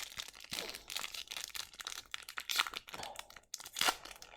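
Hockey trading cards being handled and slid over one another in the hand: a run of soft rustles and scrapes, loudest a little before the end.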